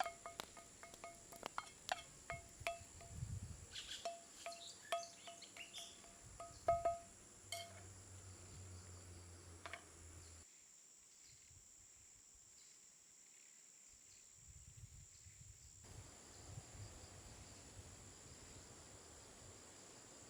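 Irregular light clinks of a utensil against a dish, each ringing at the same pitch, for about ten seconds over a steady high insect buzz. The clinks then stop and only the insect buzz remains.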